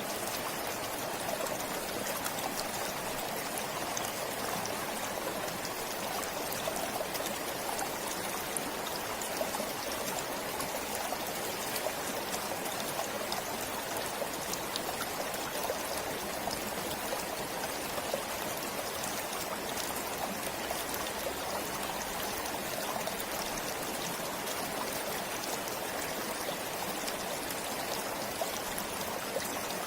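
A forest stream flowing steadily: an even rush of running water with a fine trickling texture, unchanging throughout.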